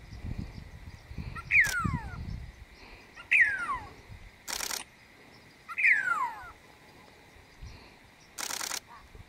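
Great parrotbill calling: three clear whistles, each sliding steeply down in pitch over about half a second, about two seconds apart. Twice a short burst of hiss cuts in between the calls, and a low rumble runs under the first two seconds.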